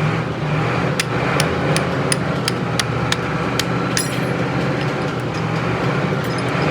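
Hammer striking metal in a quick, even rhythm, about two to three blows a second, then more scattered blows, over a steady engine hum.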